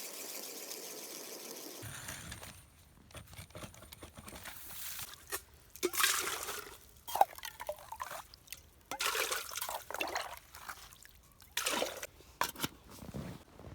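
Water splashing and trickling in irregular bursts as a cooking pot is filled with water.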